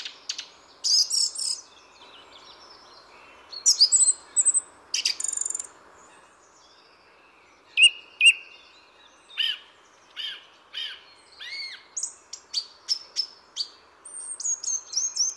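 A songbird singing a series of short whistled phrases with brief pauses between them, over a faint steady background hiss.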